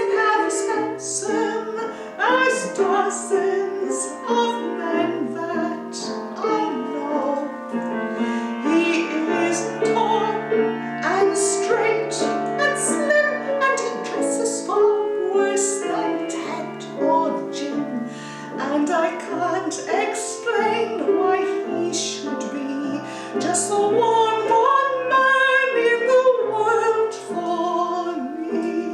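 A woman singing a show tune in a trained, classical style, accompanied by piano.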